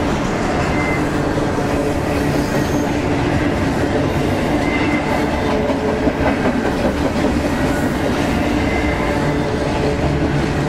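Double-stack intermodal freight train cars rolling past close by: a steady, loud rumble and clatter of steel wheels on rail, with a few brief, faint high wheel squeals.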